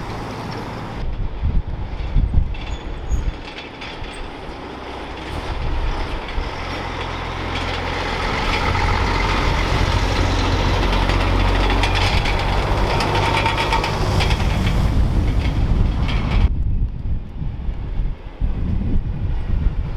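Heavy vehicle passing close: a low engine rumble with rattling and clatter that builds to its loudest past the middle, then the higher noise drops away suddenly.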